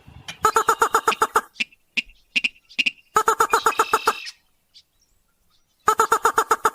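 Rail calls from a bird-lure recording (sintar / mandar padi): rapid strings of short repeated notes, about nine a second, in three bursts of roughly a second each, with scattered single notes between.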